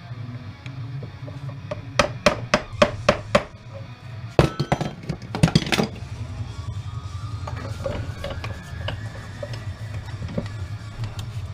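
Hand tools clinking and knocking on the metal of a small transformer being taken apart for its copper. There is a quick run of sharp metal strikes, then a denser cluster of knocks, then a faint slowly rising whine.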